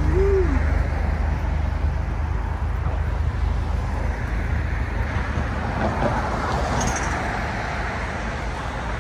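Vehicle engines idling with a steady low rumble, amid general street and traffic noise. A short voice sounds at the very start.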